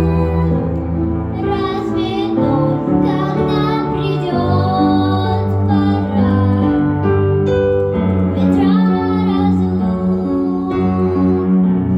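A high solo voice singing a song with instrumental accompaniment, holding long notes with vibrato over a steady bass line.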